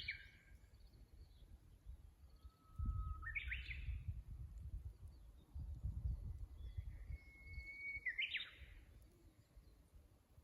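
Japanese bush warbler (uguisu) singing its 'hoo-hokekyo' song twice, each a long held whistle breaking into a quick rising flourish, with the end of an earlier song right at the start. A low, uneven rumbling noise runs underneath.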